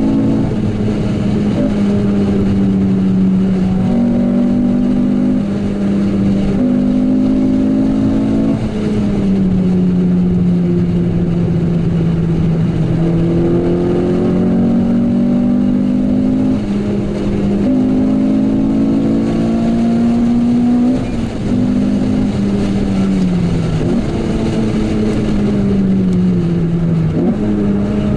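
Renault Clio 197 R27's 2.0-litre four-cylinder engine heard from inside the cabin while driving. Its pitch holds, sinks and climbs again with the throttle and gear changes, with sharp drops near the end.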